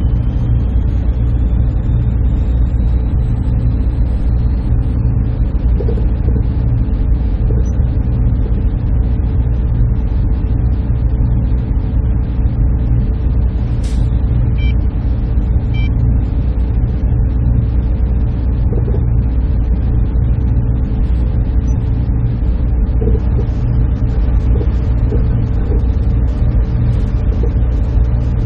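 Server room machinery running: a steady, loud low drone with a constant hum tone over it, and a single short click about halfway through.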